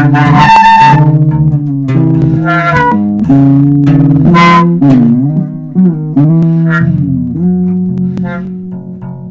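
A small band playing: guitar and electric bass under long held melody notes that slide up and down in pitch. It gets quieter over the last couple of seconds.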